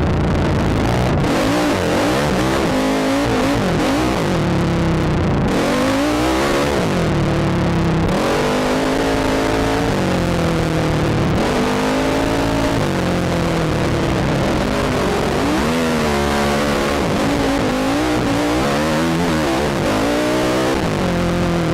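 ATV engine revving up and down over and over as the throttle is worked through the sand, recorded from the rider's helmet camera.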